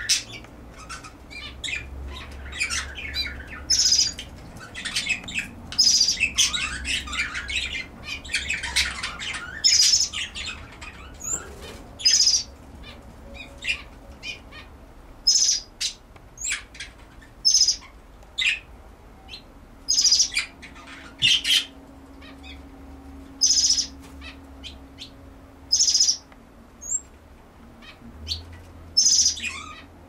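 Small aviary birds chirping: short, high calls repeating every second or two, busier with overlapping chirps in the first ten seconds.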